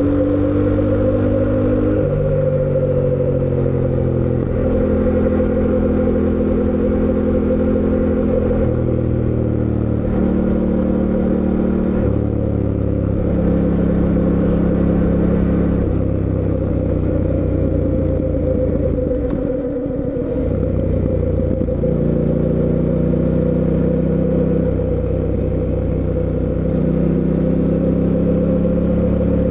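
Fantic Caballero 700 Scrambler's parallel-twin engine under way, pulling and shifting: its pitch climbs and then drops abruptly again and again as it goes through the gears. About two-thirds through it falls away briefly, as if the throttle is rolled off, then picks up again.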